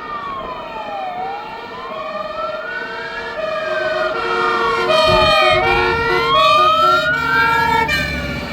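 Several fire engine sirens sounding at once. One is a slow wail that rises and falls about every two seconds, over two-tone sirens switching between two pitches.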